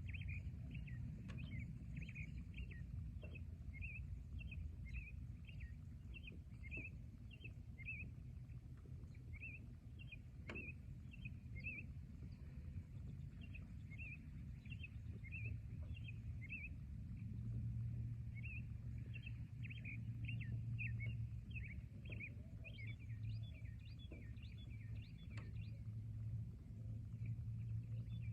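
Forest ambience: birds chirping in quick short notes, about two a second, over a steady low rumble. Near the end, higher, sharper notes join in.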